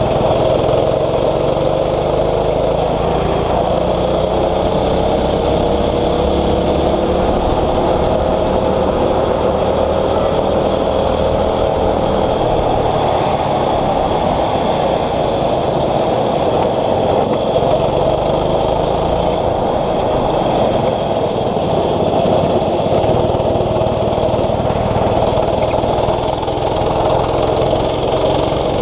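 A 6.5 hp kart engine running hard, its pitch climbing and falling slowly as the kart speeds up and slows through the corners.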